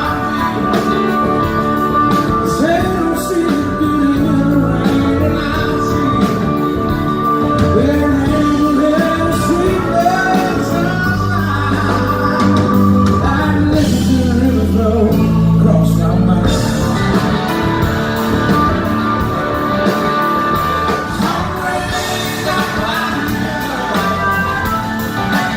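Live blues-rock band playing at full volume, with drums keeping a steady beat under bending pitched lead lines, heard in a large hall.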